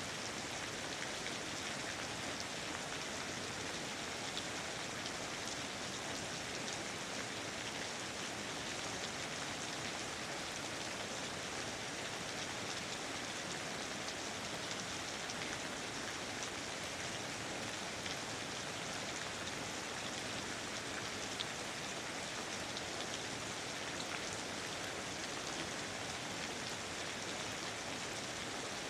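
Steady rain falling, an even hiss of many small drop patters with no let-up.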